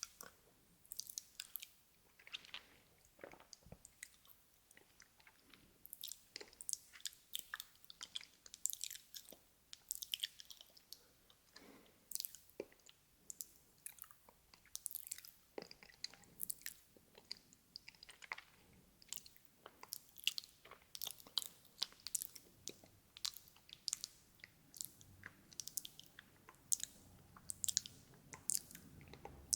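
Close-miked ASMR mouth sounds: wet tongue and lip clicks and smacks, like soft chewing, in a fast, irregular stream.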